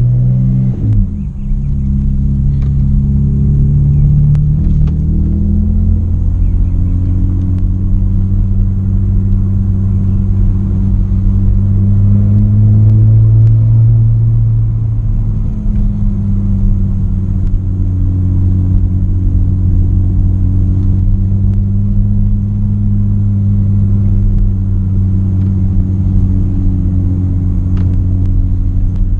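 Straight-piped BMW E90's exhaust running loud as the car is driven. The pitch drops sharply with a brief dip about a second in, as at a gear change, then rises and falls gently and holds steady while cruising.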